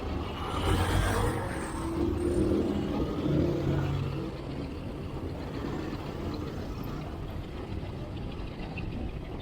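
Road traffic: motor vehicles passing close by, their engines swelling about a second in and again around three seconds, over a steady low rumble.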